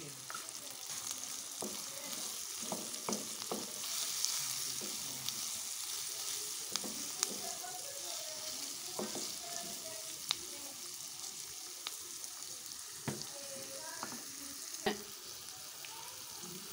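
Onions and shredded boneless chicken sizzling in hot oil in a frying pan, stirred with a wooden spatula. Scattered clicks of the spatula against the pan come through the steady sizzle.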